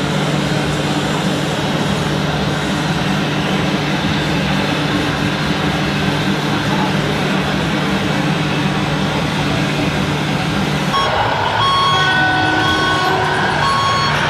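Radio-controlled model truck running with a steady low engine hum, then about eleven seconds in the hum drops and a run of short repeated beeps like a reversing alarm begins.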